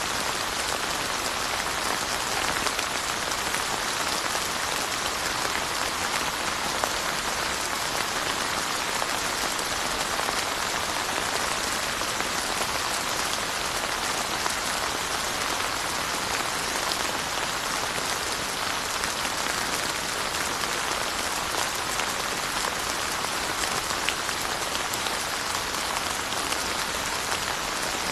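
Steady rain falling and pattering on surfaces, with fine scattered drop ticks in an even hiss.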